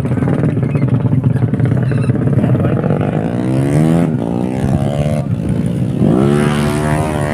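Motorcycle engine idling, then revved three times, its pitch rising with each rev.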